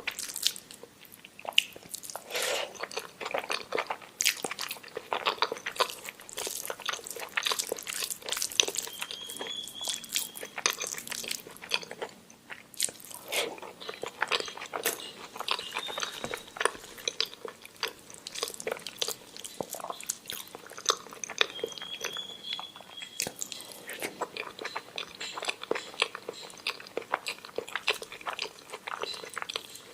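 Close-miked mouth eating sounds of omelette with rice being chewed: a steady run of small wet clicks and smacks, with two brief high squeaks, about ten seconds in and again past twenty.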